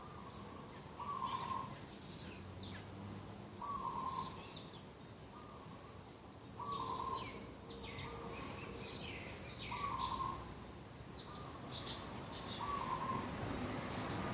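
Dove cooing in short, level notes repeated every one to three seconds, with other small birds chirping and twittering in higher, quicker calls over it.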